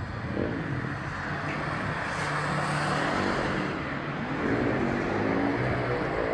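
Motor vehicle engine running over road noise, its pitch shifting up and down as it speeds up and slows; a rising engine note near the end.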